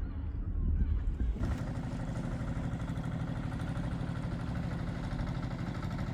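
A low rumble with wind-like noise, then, about a second and a half in, an engine running steadily at idle with an even pulse.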